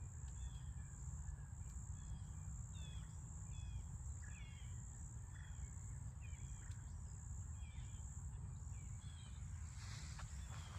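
Faint outdoor ambience: an insect trilling steadily at a high pitch, stopping near the end, with a bird giving short repeated chirps over a low rumble.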